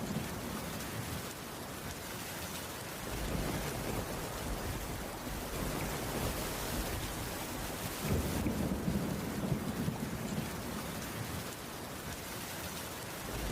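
Heavy rain falling steadily on a wooden cabin roof, an even hiss, with a low rumble swelling about eight seconds in.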